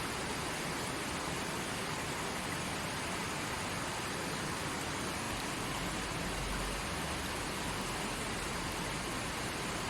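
Forest creek flowing: a steady, even rush of running water, with a brief low rumble about halfway through.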